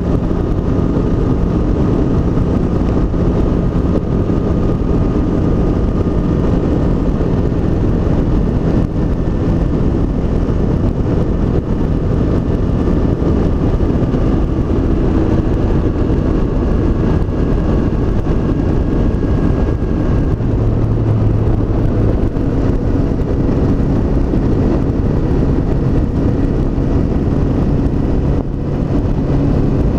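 Honda CB500X's parallel-twin engine running at a steady cruise under heavy wind rush, the engine note drifting only slightly in pitch.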